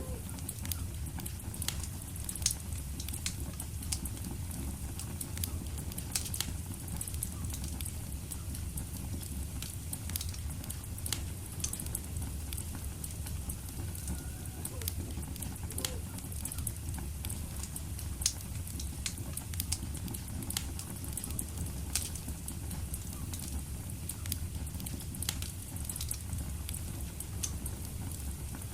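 Wood fire in a fireplace burning steadily, with a low rumble of the flames and frequent sharp crackles and pops throughout.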